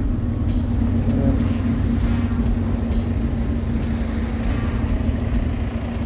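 Warmed-up Honda car engine idling steadily.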